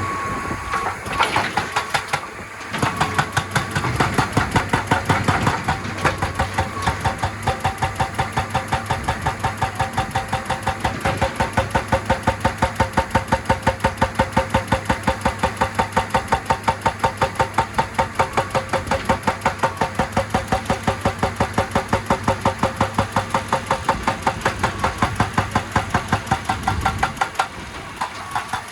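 Excavator-mounted hydraulic breaker hammering rock in a fast, even run of several blows a second, over the running excavator engine. The hammering stops briefly near the end and starts again.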